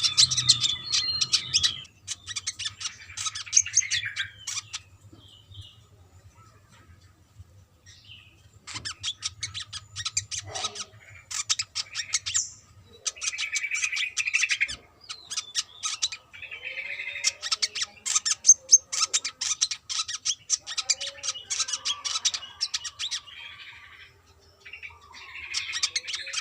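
Brown-throated sunbird singing: bursts of rapid, high twittering chatter a few seconds long, separated by short pauses.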